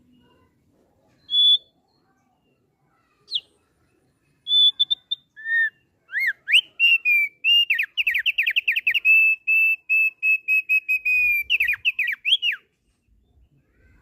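Thick-billed heleia (opior paruh tebal) singing: a few separate clear whistles, then from about six seconds in a long, fast run of whistled notes held around one pitch, ending in a couple of rising notes.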